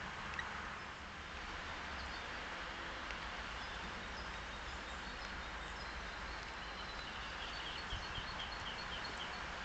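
Steady outdoor background noise with a low rumble and faint bird calls; about three-quarters of the way in, a bird gives a quick run of about eight short high chirps, some five a second.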